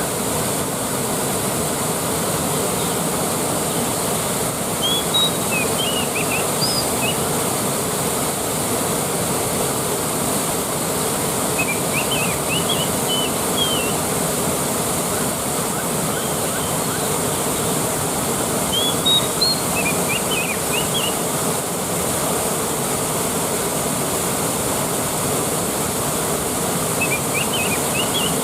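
Waterfall rushing steadily. Four short bursts of high chirps come through it at about seven-second intervals.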